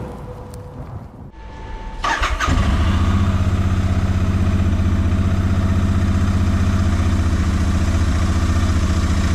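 Honda H'ness CB350's single-cylinder engine started about two seconds in: a brief crank, then it catches within half a second and settles into a steady, even idle.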